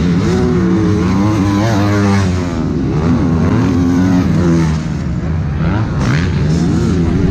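Several motocross bikes racing on the track, their engines revving up and down as the riders work the throttle and shift, loud and overlapping.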